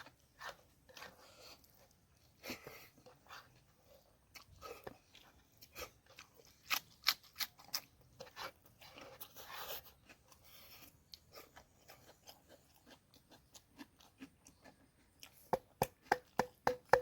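A person chewing a last mouthful of food: irregular soft wet clicks and crunches, a little louder about halfway through, with a quick run of clicks near the end.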